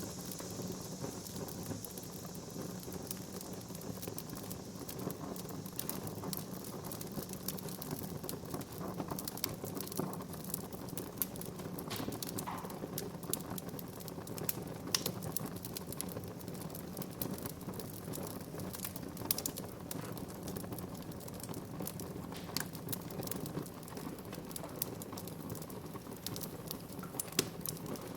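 Wood fire burning in a fireplace: a steady low hiss with frequent small crackles and snaps, and a few sharper pops standing out.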